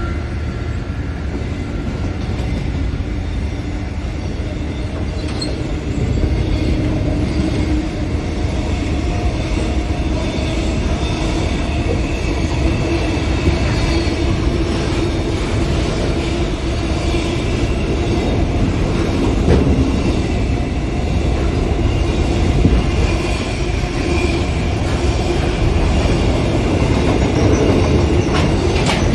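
Container freight train's wagons rolling past close by: a steady rumble and clatter of wheels on the rails, with a steady tone above it, a little louder from about six seconds in.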